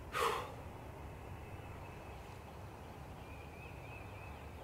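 Quiet outdoor background. A short, loud call falling in pitch comes just after the start. Faint, repeated bird chirps follow later on.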